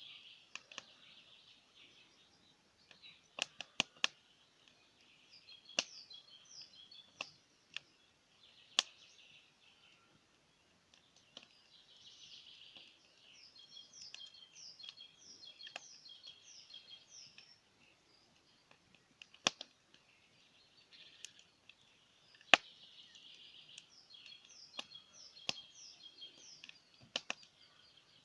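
Wood fire crackling, with scattered sharp pops and snaps a few seconds apart, under continuous high chirping birdsong.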